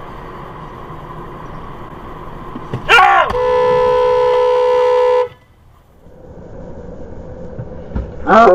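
Driving noise from the dashcam car, then about three seconds in a loud, steady car horn blast of about two seconds that begins with a quick sweep in pitch and cuts off suddenly. Near the end a second horn blast starts at a lower pitch.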